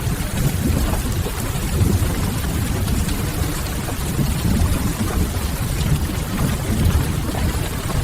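Steady rain on a window over a low, even rumble, with the faint crackle of a wood fire now and then.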